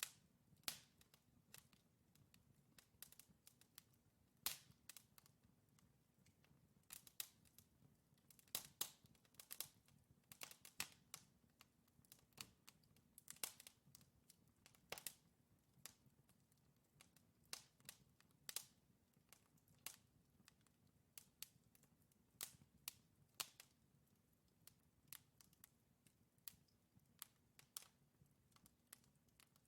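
Wood fire crackling in a fireplace: burning logs giving off irregular sharp pops and snaps, some in quick clusters, over a faint low hum.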